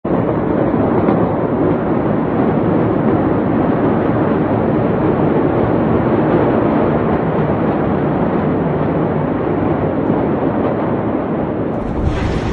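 Steady, loud rushing noise on the soundtrack of amateur footage of the Beirut port fire just before the big blast. Near the end the sound turns brighter and fuller.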